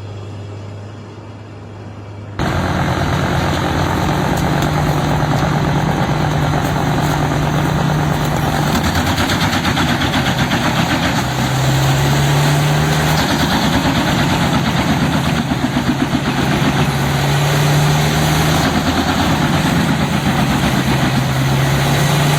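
A low steady hum for about two seconds, then suddenly a large forestry wood chipper running loud under load: its engine note wavers up and down over the constant din of wood being chipped.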